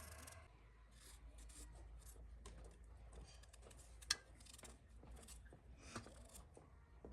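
Faint scraping and rustling handling sounds over a low hum, with one sharp click about four seconds in and a softer knock about two seconds later.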